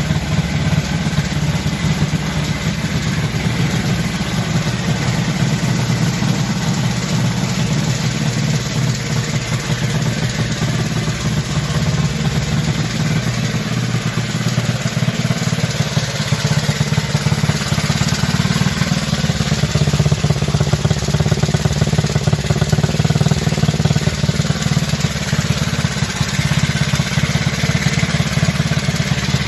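A restored motorcycle engine running steadily at about idle, with a fast, even beat and no big changes in speed.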